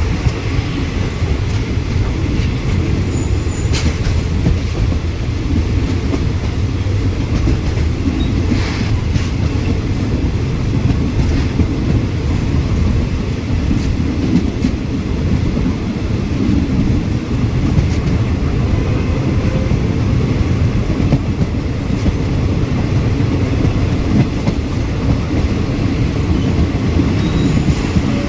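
Passenger train running at speed, heard from on board the carriage: a steady low rumble of wheels on rail, with a few sharp clicks in the first ten seconds or so.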